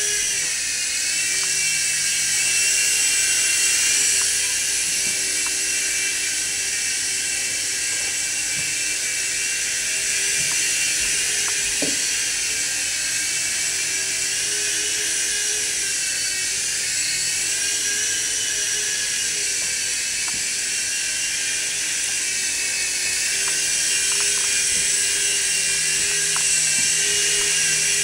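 Micro RC helicopter's small electric motor and rotor spinning with a steady high-pitched whine, its pitch drifting slowly up and down. There is a single sharp click about twelve seconds in.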